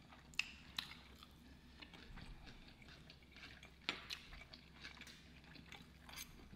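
Faint eating sounds: chewing, with a few scattered light clicks and taps of a fork against the plate.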